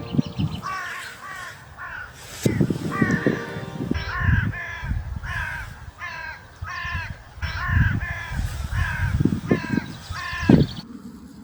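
A crow cawing over and over, harsh calls coming about twice a second in a long series that stops near the end. Low rumbling bumps sit under the calls.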